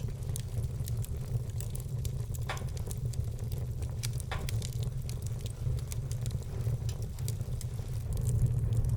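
Wood fire in a fireplace crackling, with scattered small snaps and two louder pops, one about two and a half seconds in and one about four seconds in, over a steady low rumble.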